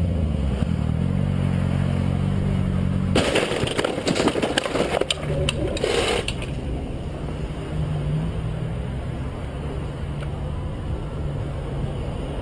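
A car's engine is running steadily. About three seconds in comes a loud collision: crunching and rattling impact noise with many sharp cracks, lasting about three seconds. After it the engine keeps running at a steady idle.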